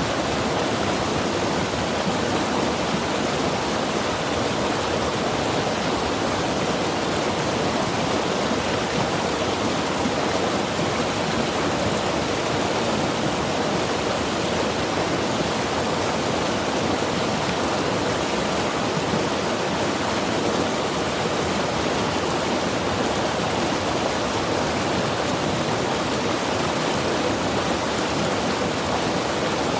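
Mountain river rushing over rocks: a steady, even roar of flowing water with no breaks or changes.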